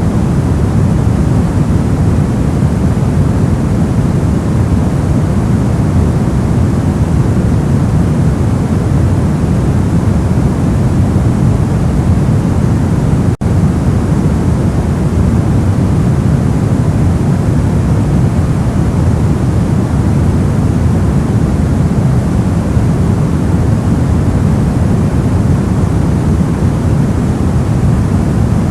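Steady generated white noise, an even rushing hiss weighted toward the low end. About thirteen seconds in it drops out for a split second, then carries on unchanged.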